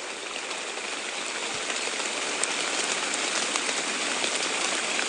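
Steady rain: an even hiss of falling rain with a few faint drop ticks, growing slightly louder.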